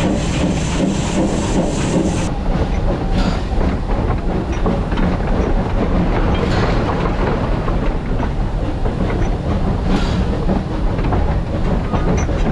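Steam train running, wheels clattering over the rail joints with a steady rumble and some steam hiss. The hiss drops back about two seconds in.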